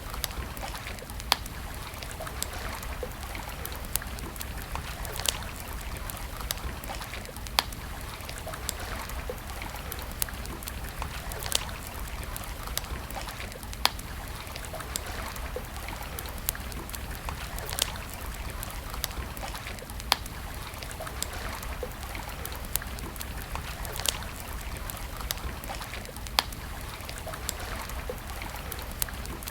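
Wood campfire crackling, with sharp pops every one to three seconds over a steady rushing hiss and a low rumble.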